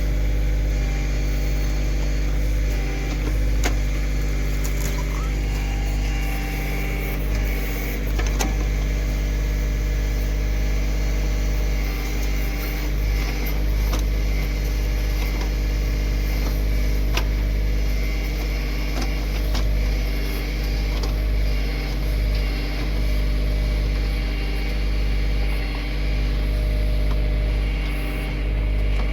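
Kioti CK2610 compact tractor's three-cylinder diesel engine running steadily, with a few sharp knocks scattered through.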